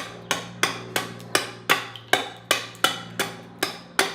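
Hammer blows on wood, struck at an even pace of about three a second, each blow sharp with a short ring.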